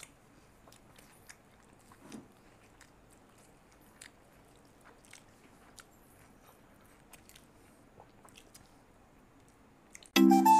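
Faint chewing, with scattered soft clicks, as two people eat roti and mutton curry by hand. Loud music cuts in suddenly at the very end.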